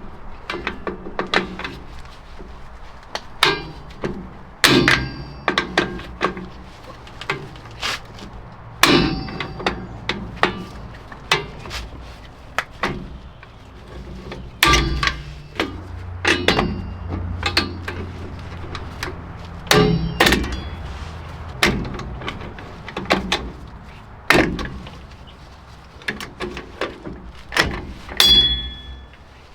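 Metal hand tools and brake parts clanking during rear drum brake work: irregular sharp metal knocks and clinks, several with a brief ringing tone.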